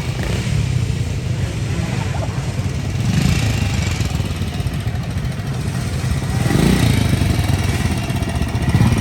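Motorcycle engine running and being revved in bursts, its pitch rising and falling about three times.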